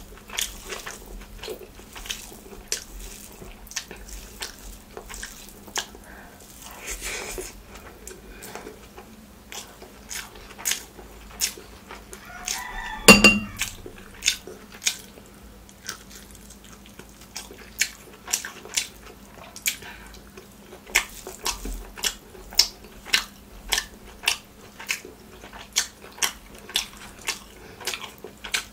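Close-miked eating: wet chewing and lip smacking of rice and curry eaten by hand, a short sharp click every second or so. About halfway through comes one loud knock, the loudest sound here.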